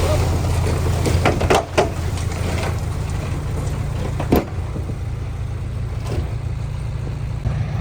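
Diesel engine of heavy earthmoving machinery running steadily, with a few short clanks about a second and a half in and another at about four and a half seconds.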